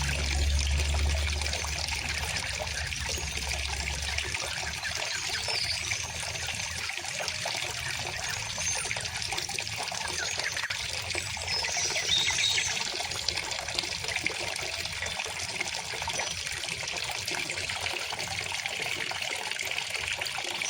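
A river or stream flowing and trickling in a steady, even rush, with faint bird chirps now and then. A low rumble underlies the first four seconds.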